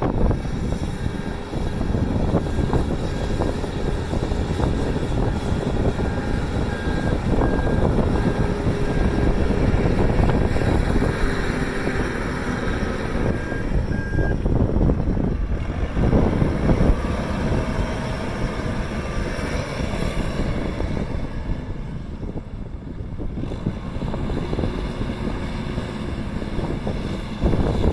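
Merlo P60.10 telehandler running and working, with heavy wind buffeting on the microphone. A repeating beep sounds through about the first half, typical of the machine's reversing alarm.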